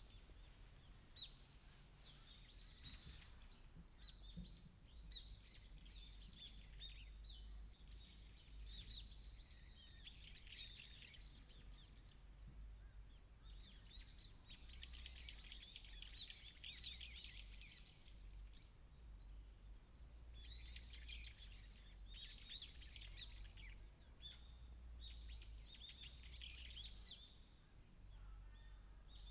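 Small songbirds chirping and singing in repeated bursts of quick high notes and trills, faint, over a steady low rumble.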